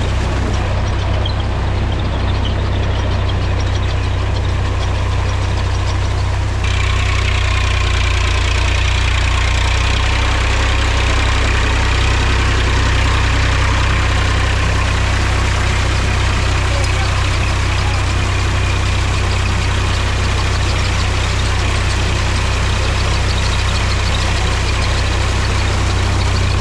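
Mahindra tractor's diesel engine running steadily with a deep, even drone. About seven seconds in, a higher-pitched noise grows louder over it and then holds.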